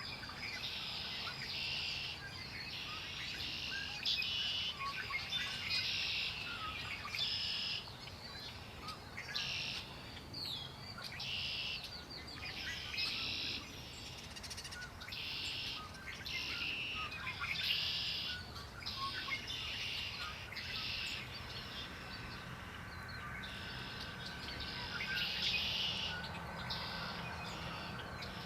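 Songbirds singing, with short buzzy phrases repeated every second or two over a steady low background rumble.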